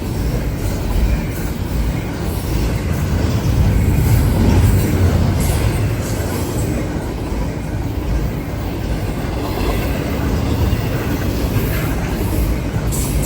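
A long freight train passing close by: a steady noise of its cars' wheels running on the rails, a little louder about four seconds in.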